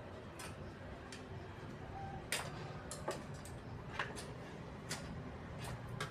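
Irregular sharp clicks and light knocks, of parts and tools being handled while working on a washing machine, over a low steady hum.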